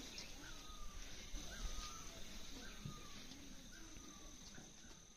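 A bird repeating a short falling whistle over and over, a little under twice a second, faintly, over a steady high-pitched hum that is likely insects.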